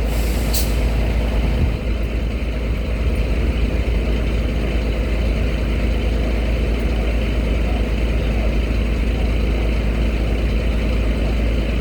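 Heavy engines running steadily with a deep, unbroken rumble, with one short high click about half a second in.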